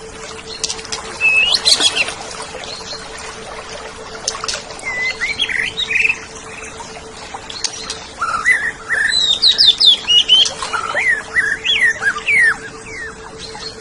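Oriental magpie-robin (kacer) singing: varied whistled phrases of quick rising and falling notes, coming in short bursts at first and turning into a busy run of song in the second half, over a steady faint hum.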